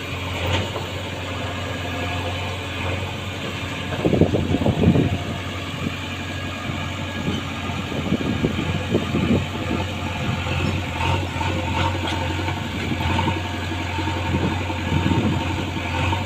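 A diesel engine of a tractor or backhoe loader running steadily at low revs, with louder irregular bursts about four to five seconds in.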